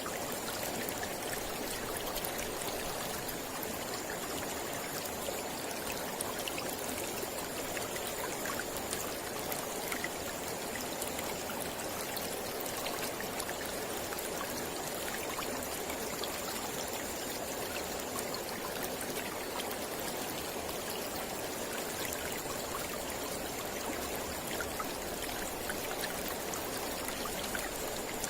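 Mountain river flowing steadily, a continuous rush of water with small splashes.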